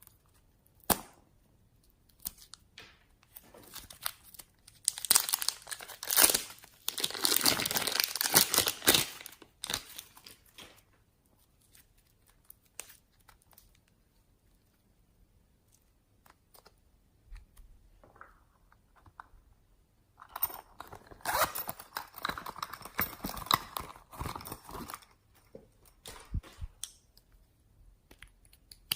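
Slime being handled and mixed with clay by hand: wet squishing, stretching and tearing with dense crackling pops, in two long spells separated by a few scattered clicks.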